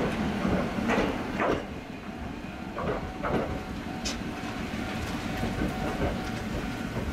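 Choshi Electric Railway electric train pulling away from the station. Its low running rumble is broken by pairs of wheel clanks over rail joints, about a second in and again about three seconds in, and it grows quieter as the train moves off.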